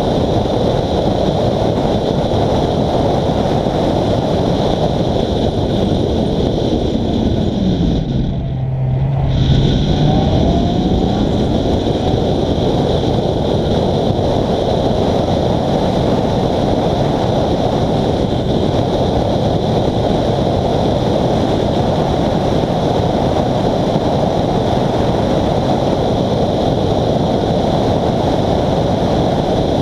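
In-cabin sound of a Honda Civic FD2 Type R's 2.0-litre four-cylinder engine running under way, mixed with heavy road and wind noise. About eight seconds in the engine note falls and holds briefly as the car eases off, then climbs again as it accelerates.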